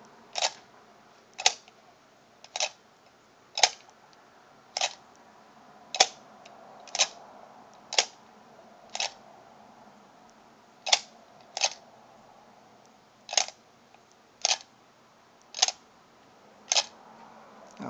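Aluminum elephant mechanical bank being worked by its tail lever, the lever, trunk arm and spring giving a sharp click about once a second, some sixteen clicks in all with a short pause near the middle.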